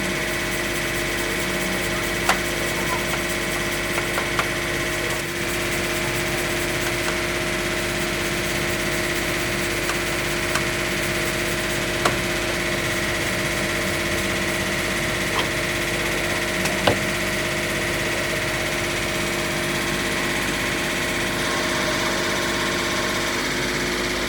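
A machine running steadily, a constant motor hum with a few fixed tones, broken by occasional short sharp clicks or knocks.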